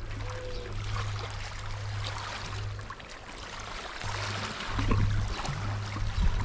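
Sea water washing and trickling among shoreline rocks, a little louder about five seconds in.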